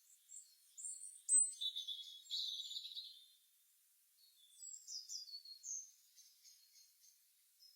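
Birds chirping faintly: quick, high chirps and a warbling phrase over the first three seconds, a short pause, then another run of falling chirps.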